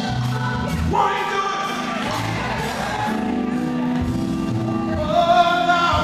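Gospel group singing live, with several voices over instrumental accompaniment.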